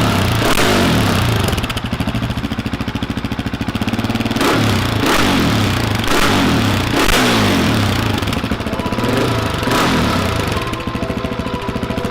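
Husqvarna 701 Supermoto's single-cylinder engine, fitted with an aftermarket exhaust, idling between repeated short throttle blips, the revs rising and falling back several times.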